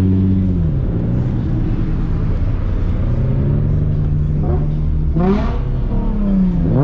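Car engine running and revving: its pitch dips under a second in, climbs slowly, then jumps up sharply about five seconds in and falls away, and rises steeply again near the end.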